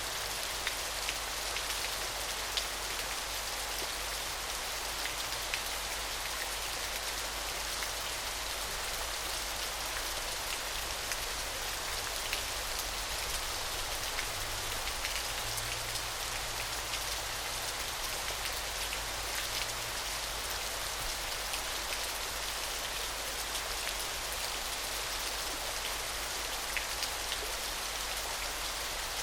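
Small waterfall splashing steadily: an even, bright hiss of falling water with scattered little drip-like ticks.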